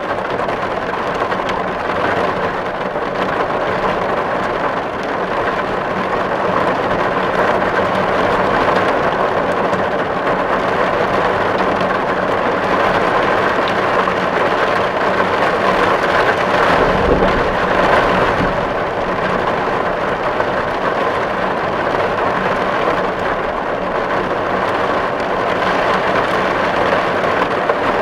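Steady rain drumming on a tin roof: a dense, even patter of drops on sheet metal. A brief low rumble comes a little past halfway.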